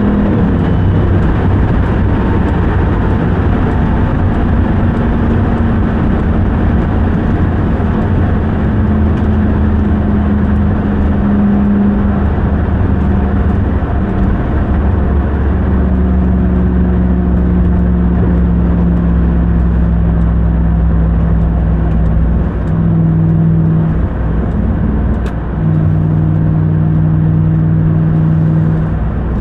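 Supercharged 6.2-litre Hemi V8 of a Ram 1500 TRX pickup running at driving speed, with road noise. The engine note holds steady, then drops in pitch about 12 seconds in and steps up and down a few more times near the end.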